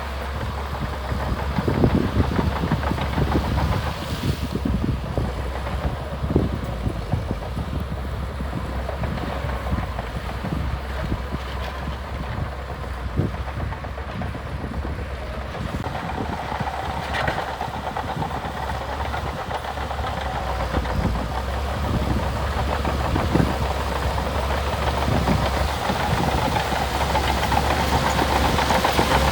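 Diesel engine of a heavy earthmoving machine running under load, with scattered knocks and clanks from the machine at work; the engine grows louder about halfway through.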